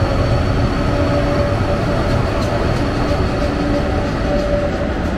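A train running at a railway station: a loud, steady rail rumble with a wavering hum, and a few faint clicks about two to four seconds in.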